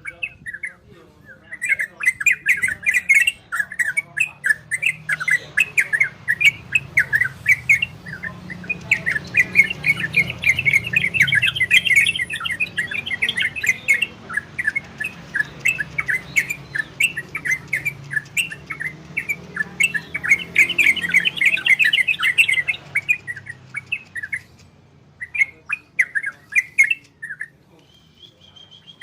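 A yellow-vented bulbul (trucukan) singing its rapid chattering 'ropel' song in long dense runs, with short pauses between runs, over a faint low hum.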